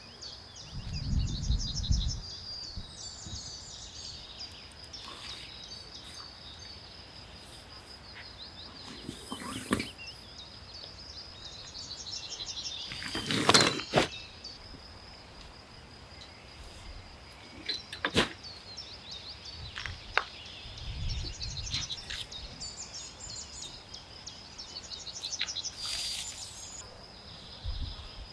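Outdoor ambience with birds chirping in repeated high trills, broken by scattered sharp knocks and a few dull low thuds from handling things around the camp, the loudest knock about halfway through.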